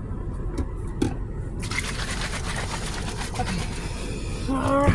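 A hissing spray of liquid against the car, starting abruptly about a second and a half in and running steadily, over a low steady hum.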